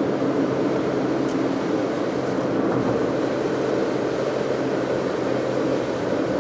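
Car interior noise while driving at steady speed: a low, even engine hum blended with road and tyre noise.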